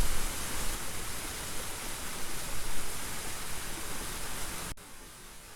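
Small waterfall's steady rush of falling water. It cuts off abruptly near the end, leaving a faint hiss.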